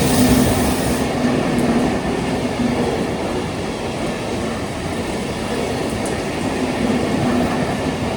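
Train running through the station on the rails, a steady loud rumble of wheels and cars on the track.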